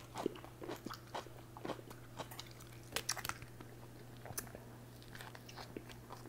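Close-up biting and chewing of a pickle and peanut butter sandwich: faint, irregular wet crunches and mouth noises, over a steady low hum.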